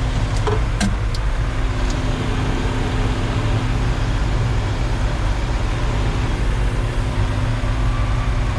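Heavy diesel engine, most likely the concrete mixer truck's own, running steadily as a low hum with a faint steady tone above it. A few light clicks come about a second in.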